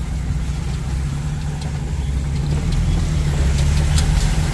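A 4x4's engine running at low speed, a steady low rumble.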